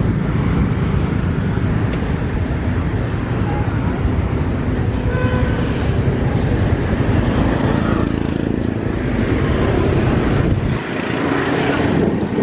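Outdoor street ambience of passing traffic, with wind rumbling on the microphone; a short faint tone sounds about five seconds in, and the low rumble eases near the end.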